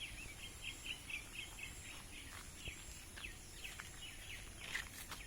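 Faint bird chirping: a quick run of short chirps at the start, then scattered single chirps.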